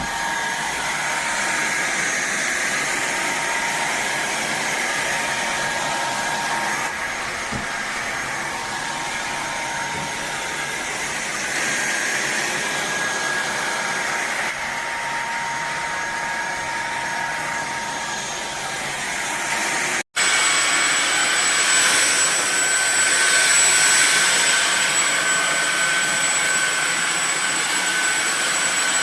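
Fieety cordless stick vacuum motor running steadily with a whine. There is a sudden break about two-thirds of the way through, after which it runs louder with a higher-pitched whine.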